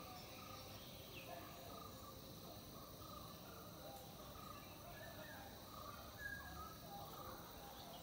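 Faint outdoor ambience: scattered short bird chirps over a steady background hiss.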